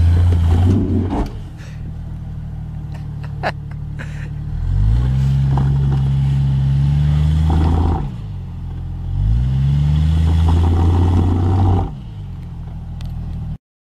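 Jeep Cherokee XJ's 4.0-litre straight-six revved hard in three surges, dropping back to idle between them, as the Jeep fails to climb a rock ledge with a wheel lifted: an open differential sending the power to the wheel with no grip. A sharp knock about three and a half seconds in.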